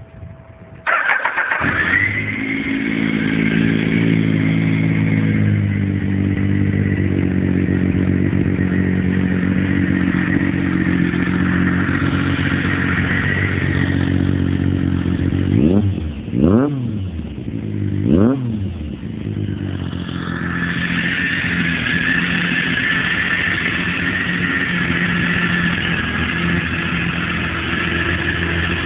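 2002 Triumph Daytona 955i's three-cylinder engine through a titanium Nikko Racing aftermarket exhaust, starting about a second in and settling into idle. Around the middle the throttle is blipped twice in quick succession, the revs rising and falling sharply each time before it drops back to idle.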